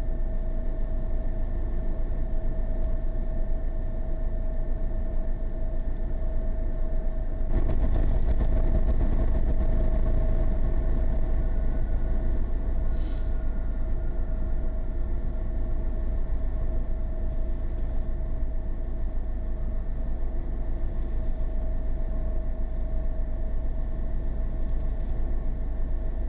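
An engine idling steadily: a low rumble with a constant hum. The rumble swells briefly about eight seconds in.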